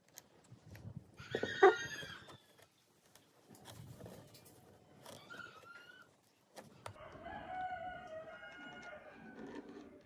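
Chickens calling: short clucking calls early, then a rooster's long crow through the second half, with a few sharp clicks scattered throughout.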